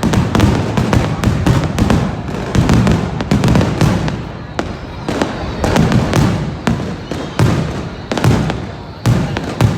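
A continuous fireworks barrage: many overlapping sharp cracks and bangs over deep booms that swell about once a second.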